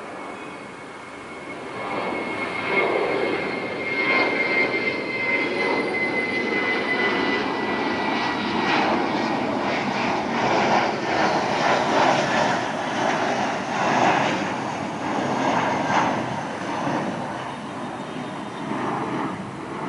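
Twin-engine widebody jet airliner passing close by on its landing approach: a high engine whine slowly falling in pitch, then a loud rushing roar that builds, holds through the middle and fades near the end.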